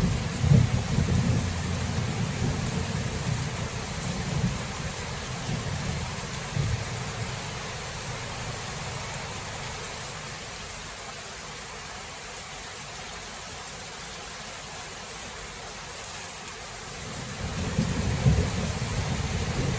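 Steady heavy rain with rolling thunder: a low rumble that dies away through the middle and builds again near the end.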